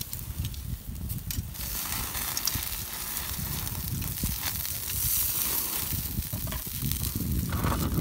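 Campfire crackling, with many small sharp pops, over a steady low rumble.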